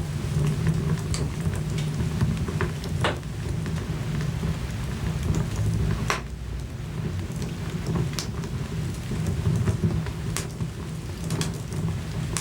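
Crackling log fire in a fireplace: a steady low rumble of flames with irregular sharp pops and snaps.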